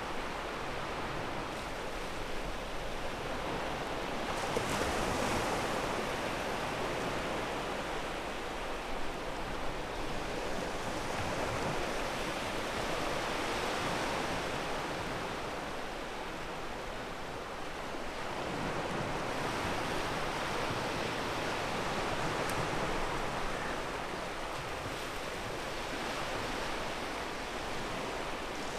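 Ocean waves breaking and washing over a pebble beach: a continuous rush of surf that swells louder and eases off every several seconds.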